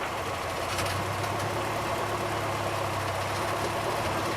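Farm tractor's engine idling steadily.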